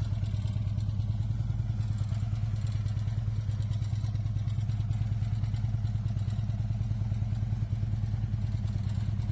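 2010 Harley-Davidson Tri Glide Ultra Classic's V-twin engine idling steadily with an even, unchanging beat.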